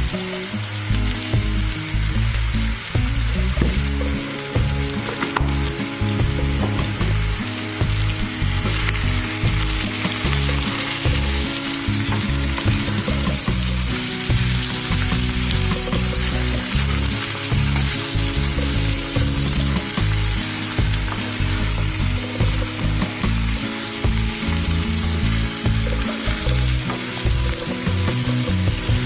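Eggplant pieces sizzling as they fry in oil in a pan, stirred and turned with a spatula.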